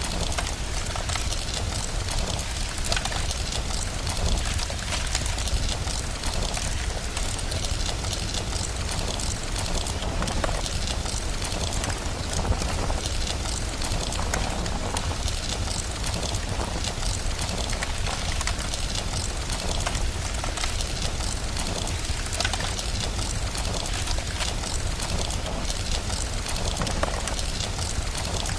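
Steady rain with a crackling wood fire, many small crackles scattered over an even hiss, over a constant low rumble.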